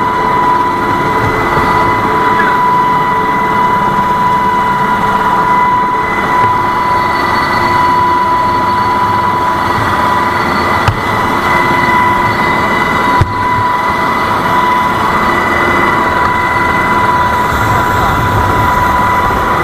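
Heavy machinery running steadily and loudly, with a constant high whine over a rough mechanical noise.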